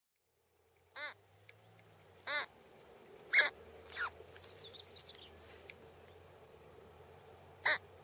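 A bird giving five short, harsh calls, the first four about a second apart and the last after a pause of over three seconds; the fourth falls in pitch.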